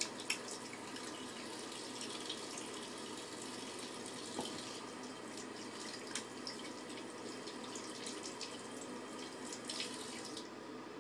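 Hands being washed under a running tap at a sink, water pouring steadily with small splashes; the tap shuts off near the end.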